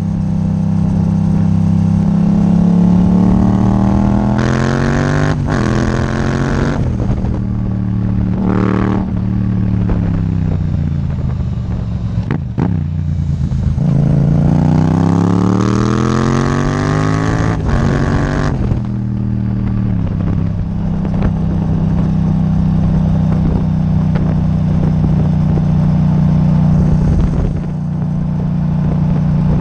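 Yamaha MT-07's parallel-twin engine through an Akrapovič titanium exhaust, ridden hard. The revs climb and drop back several times as it accelerates through gear changes, with a short rev blip in between, then hold a steady low note for the last ten seconds.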